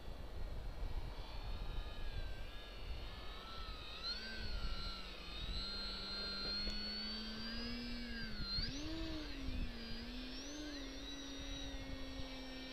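Electric motor and propeller of a ParkZone VisionAire RC plane whining, its pitch rising and dipping over and over as the throttle and the plane's distance change, over low wind rumble on the microphone.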